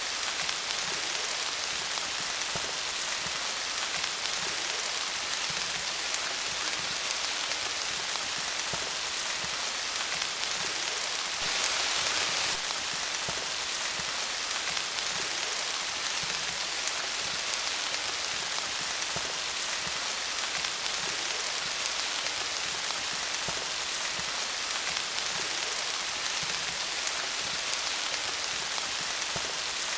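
Steady rain falling on leaves, a dense even patter of drops, swelling briefly about twelve seconds in.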